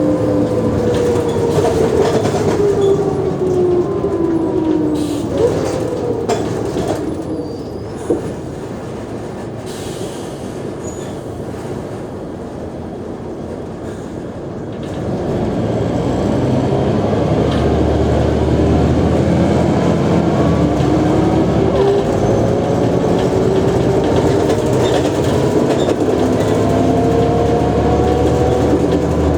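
Mercedes-Benz O345G articulated bus slowing down, its drivetrain whine falling in pitch, then running quieter for several seconds. About halfway through the engine picks up strongly and the whine climbs steadily in pitch as the bus accelerates away.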